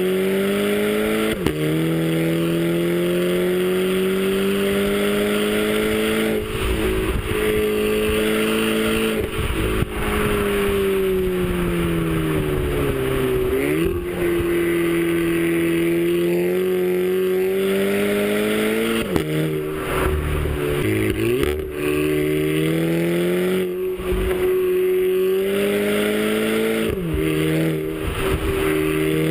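Audi A3 turbocharged four-cylinder TSI engine with an APR K04 turbo upgrade, pulling under load while driving. Its pitch climbs slowly through each gear and drops sharply at the shifts, about three times, with one slower dip and rise midway.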